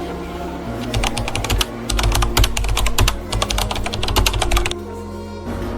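A fast, dense run of clicks like typing on a keyboard, starting about a second in and stopping sharply near the end, over a steady low tone.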